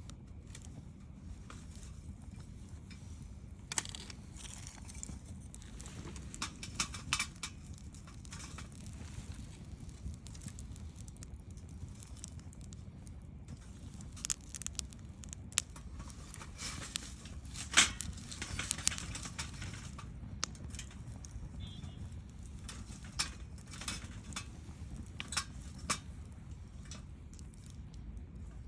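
Wood campfire crackling: burning wood pops and snaps at irregular intervals, with the loudest snap a little past the middle, over a steady low rumble.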